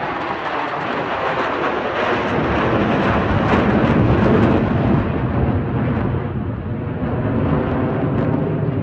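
Fighter jet engines rumbling loudly as jets pass overhead. The noise peaks about halfway through, then turns duller as the jets move away.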